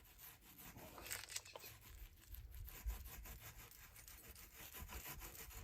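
Faint, irregular rubbing and scratching of resin being spread over fiberglass cloth on a drum shell.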